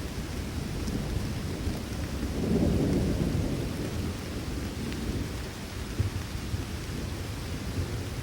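Steady rain with a low, rolling rumble of thunder that swells about two and a half seconds in and then dies back under the rain.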